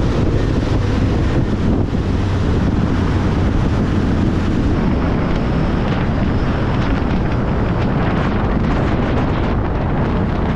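A car driving at speed: steady road and wind noise buffeting the microphone, with a low engine hum under it that fades about four seconds in.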